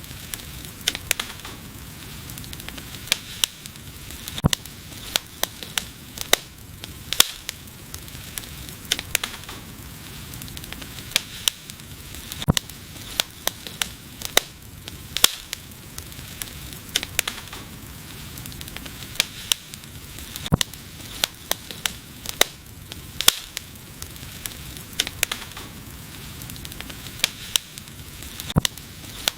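Wood fire burning: irregular sharp crackles and pops, several a second, some much louder than the rest, over a steady soft hiss.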